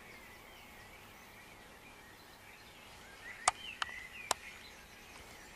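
Faint birds singing and chirping, with three sharp clicks in quick succession about three and a half seconds in.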